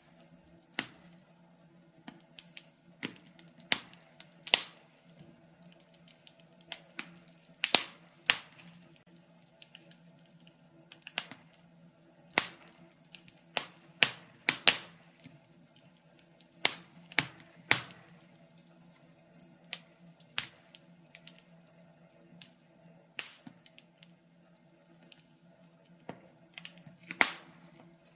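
Wood fire crackling in a fireplace: irregular sharp pops and snaps, sometimes several close together and sometimes seconds apart, over a faint steady low hum.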